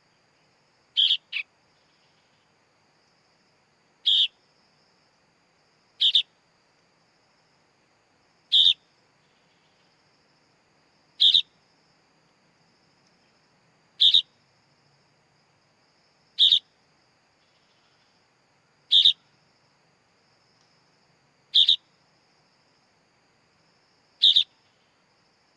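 Sooty-headed bulbul (kutilang) chick calling: a short, sharp high call repeated about every two and a half seconds, the first one a quick double.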